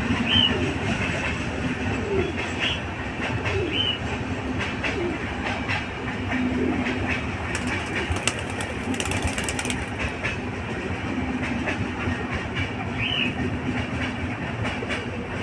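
Birds calling with short rising chirps, several in the first few seconds and again near the end, over a continuous rumbling, rattling noise.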